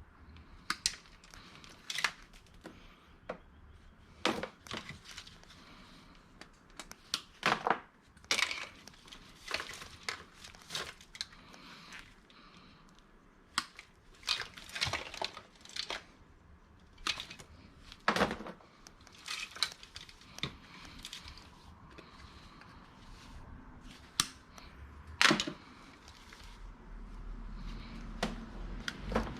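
Irregular sharp clicks, snaps and clatters of hard plastic electronics being handled and sorted, with cords being cut off them for scrap.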